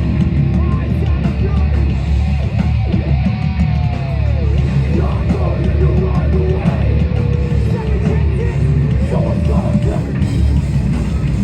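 Hardcore band playing live over a loud PA: distorted guitars, bass and drums, with a heavy, booming low end.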